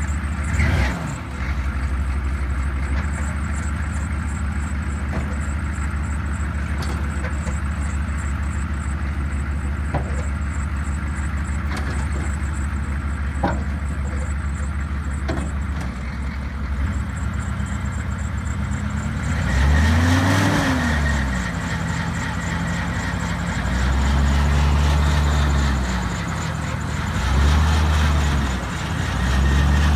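Chevrolet HD 3500 pickup's engine idling steadily, then revved several times in the second half, the pitch rising and falling with each rev.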